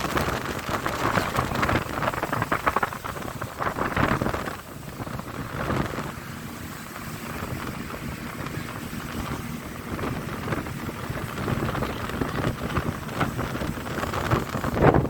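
Rushing noise of a motorboat ride: wind buffeting the microphone and water rushing past the hull, gusty for the first few seconds, then steadier.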